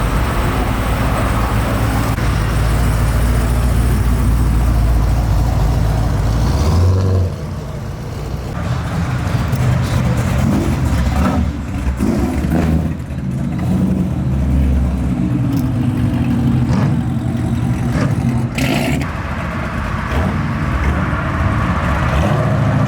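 Car engines running and revving at close range, with a heavy, steady low exhaust rumble for the first seven seconds, then engines rising and falling in pitch as cars move.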